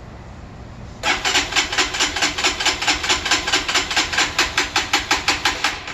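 Electric starter cranking the Lifan KPR 200's fuel-injected single-cylinder engine, starting about a second in with an even chug of about six pulses a second. It stops near the end without the engine catching: the bike won't start.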